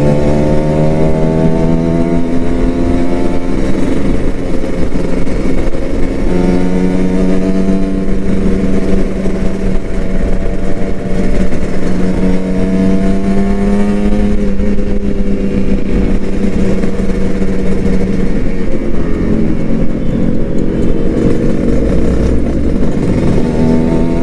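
Kawasaki Ninja RR 150's two-stroke single-cylinder engine under way, its pitch climbing under throttle and dropping back several times as the rider accelerates, shifts and eases off.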